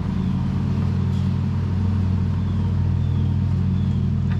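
A motor running steadily with a low, even hum, and a couple of faint clicks over it.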